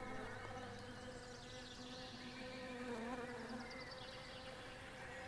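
Faint, steady buzzing drone holding one pitch, of the kind a flying insect makes.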